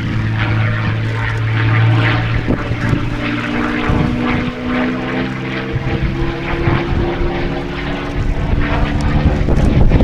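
The Silver Spitfire's Rolls-Royce Merlin V12 piston engine running loudly as it flies its display, its note shifting in pitch about four seconds in as it passes.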